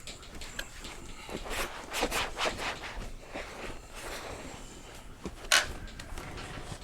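Wiping and scrubbing over a mobility scooter's seat cover in a run of quick rubbing strokes. There is one short, sharp sound about five and a half seconds in.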